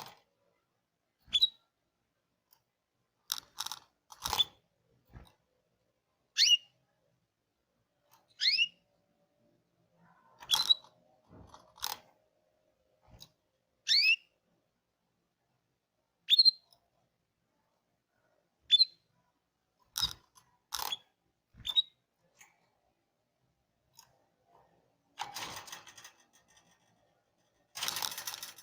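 Canary giving short single high chirps, one about every two seconds, with scattered clicks and rustling between them.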